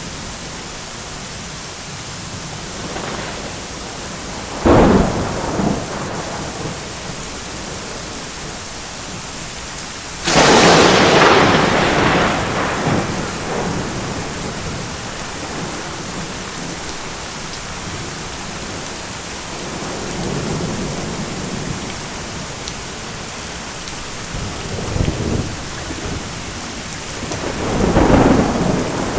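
Steady heavy rain with repeated thunder: a sharp crack about five seconds in, a louder crack about ten seconds in that rumbles on for several seconds, and softer rolls of thunder later on.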